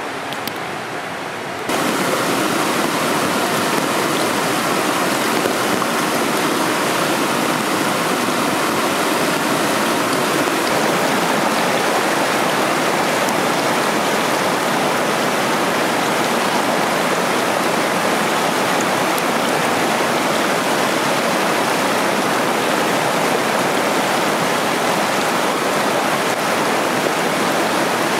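Waterfall, water rushing and splashing in a steady, dense noise; it turns louder and brighter about two seconds in, then holds steady.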